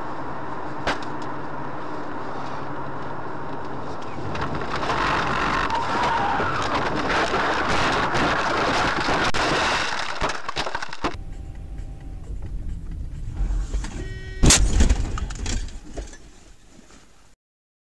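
Car driving, heard from inside: steady engine and road noise that grows louder about four seconds in. After a cut to a quieter scene comes a sudden loud bang with a short ringing tone, then the sound dies away and stops.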